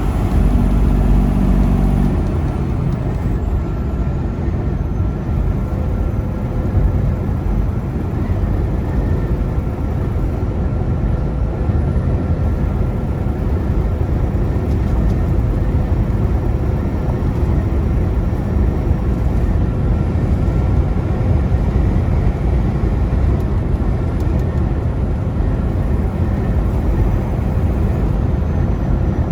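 Steady engine drone and road noise heard inside the cab of a Freightliner semi truck cruising on the highway. A faint, thin steady whine joins in about five seconds in.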